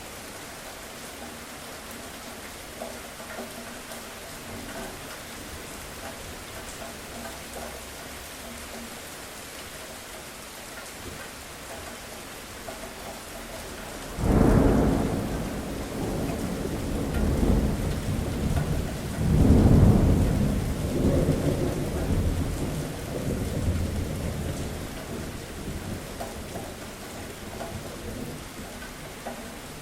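Steady rain falling in a thunderstorm. About halfway in, a loud thunderclap breaks out and rolls on in several swelling rumbles, then slowly dies away under the rain.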